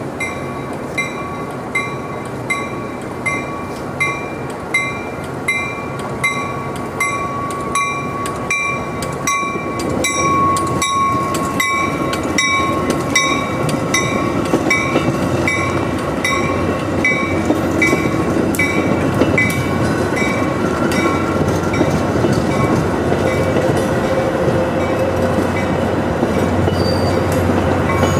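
Passenger train passing on the tracks, with a bell ringing about once a second and the clicking of wheels over rail joints. The rail noise grows louder partway through, and a low diesel engine drone comes in near the end.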